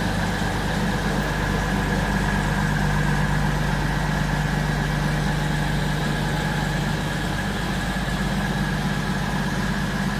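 Diesel train engine running steadily, heard from inside the carriage, its low hum dropping slightly in pitch about a second in.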